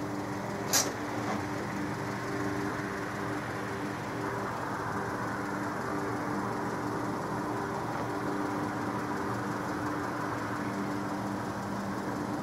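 A car engine idling steadily. A single sharp click sounds about a second in.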